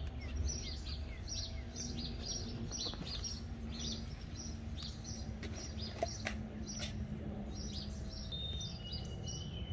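Small birds chirping, short high notes repeated several times a second, over a faint steady low hum; a couple of sharp clicks about six seconds in.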